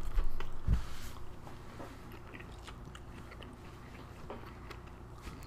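Close-miked chewing of a soft Korean-style egg toast sandwich: small wet mouth clicks, busier and louder in the first second or so, then fainter. A single dull thump comes just under a second in.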